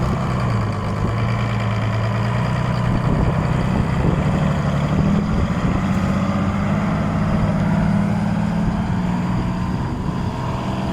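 Old concrete truck's diesel engine running under way: its pitch climbs over the first few seconds, holds steady, then drops back near the end.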